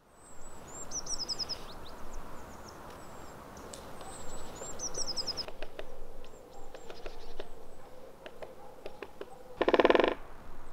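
Small birds calling in trees: two quick series of high, falling notes, then scattered short chirps. A short, loud buzzy sound comes near the end.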